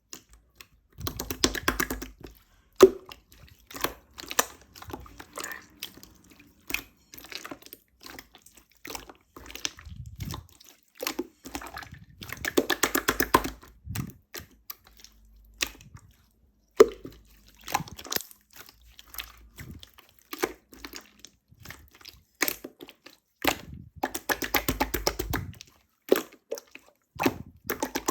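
Opaque slime being squeezed and poked by hand, giving rapid sticky popping and squelching clicks in irregular bursts.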